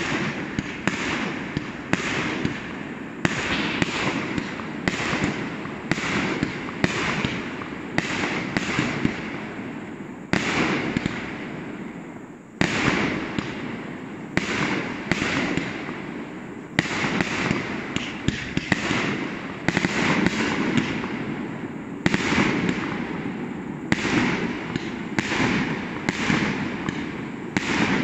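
Aerial fireworks bursting in quick succession, about one or two sharp bangs a second, each with a rumbling echo trailing after it. The bangs die away briefly about ten seconds in, then resume with a sharp bang.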